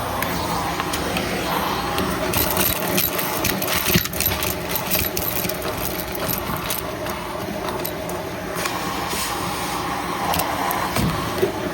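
Vacuum cleaner running steadily, with crackling and rattling as debris is sucked up, heaviest from about two to seven seconds in.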